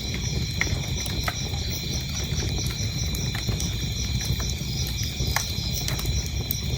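Wood fire crackling, with scattered sharp pops over a low rumble, while crickets chirp in a steady, high, rhythmic trill.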